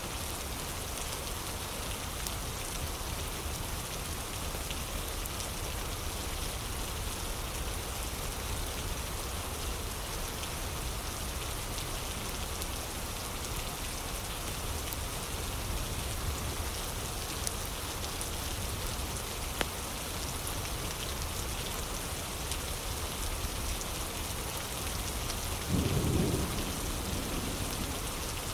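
Steady rain falling, with a few sharp crackles of a wood fire. Near the end comes a short low rumble of thunder, the loudest moment.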